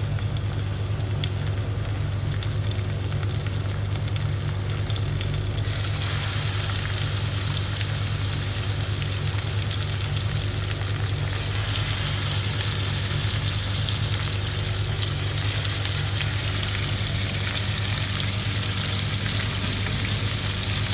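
Chicken frying in hot oil with onion and garlic in a pan, a steady sizzle that jumps louder and brighter about six seconds in, when the chicken goes into the pan. A steady low hum runs underneath.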